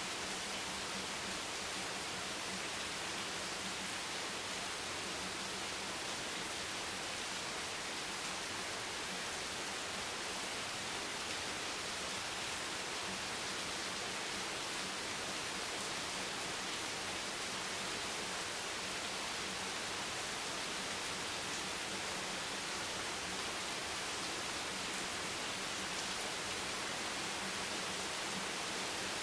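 Steady rain, an even hiss that holds one level with no thunder or single drops standing out.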